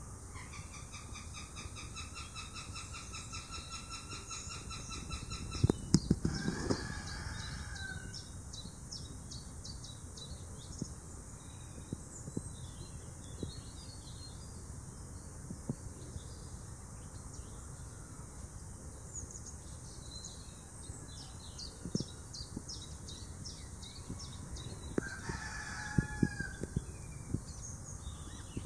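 Birds calling: a rapid, even chattering call lasts about five seconds near the start, while small birds chirp throughout. Two brief bouts of rustling with low thumps come about six seconds in and again near the end.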